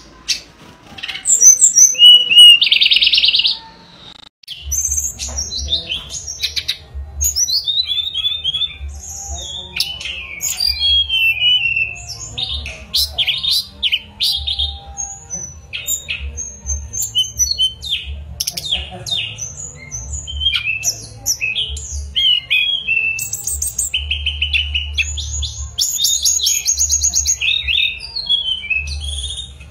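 Hill blue flycatcher (tledekan gunung) singing: a loud rapid trill about two seconds in, then after a short break a run of quick, high whistled phrases sliding up and down, with a low hum underneath.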